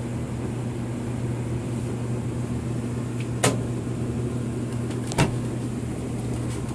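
Paused washing machine giving off a steady low electrical hum, with two sharp clicks about three and a half and five seconds in.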